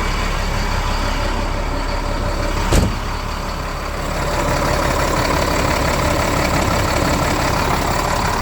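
Chevy dump truck's diesel engine running steadily just after a cold start from months of sitting. A single sharp click or knock about three seconds in.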